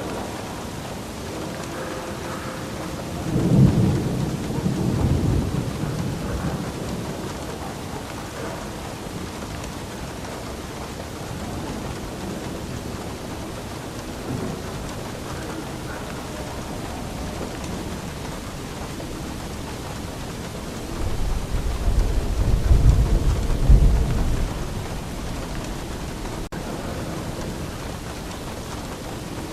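Steady rain falling, with two rolls of thunder: a rumble about three to six seconds in and a longer, deeper one near the two-thirds mark.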